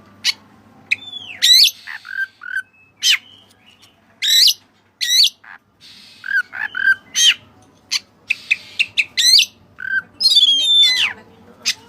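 White-breasted kacer (Oriental magpie-robin) singing loud, sharp whistled notes and slurred rising and falling phrases, one at a time with short pauses between them, with a quicker run of notes near the end.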